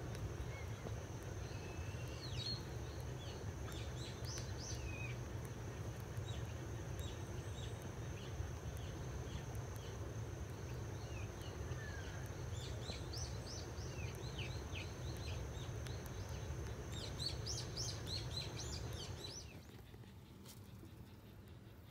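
Outdoor ambience of small birds chirping: many short, quick calls and sweeps, over a steady low hum and a thin, steady high whine. About 19 seconds in, the sound drops abruptly to a quieter background.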